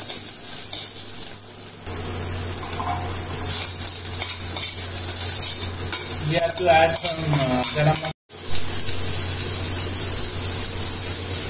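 Sliced onions, green chillies and tomatoes sizzling in hot oil in a stainless steel pot while a spoon stirs and scrapes against the pot. The sound breaks off for a moment about eight seconds in, then the sizzling goes on.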